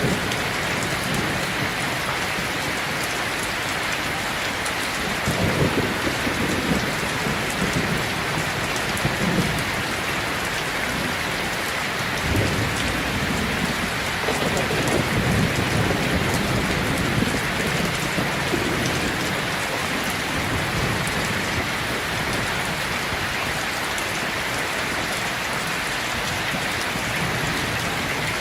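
Steady heavy rain pattering on a surface, with low rumbles of distant thunder swelling up about five seconds in and again around the middle.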